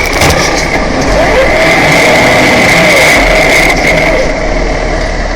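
Truck engine and road noise as the truck runs, steady, with a thin high whine held above it.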